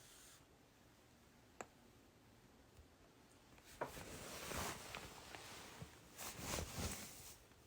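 Faint handling noises: a single click about one and a half seconds in, then rustling with small knocks through the second half, as a large gift package of snacks is handled.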